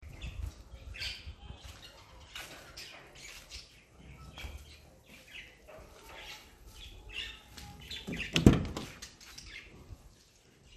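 Small birds chirping over and over, with a single loud clunk about eight and a half seconds in as the car's rear door is opened.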